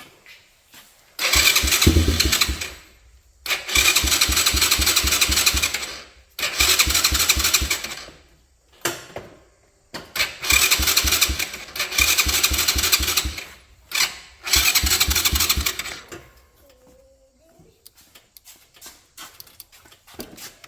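Electric starter cranking the RPS 125cc kids' ATV engine in five separate tries of one to three seconds each, with an even chugging of compression strokes and no sign of the engine catching.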